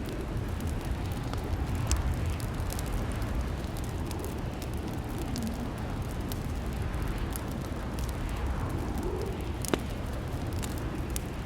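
Wood fire burning in a fireplace: a steady low rumble with frequent small crackles and snaps, and a sharper pop about two seconds in and another near the end.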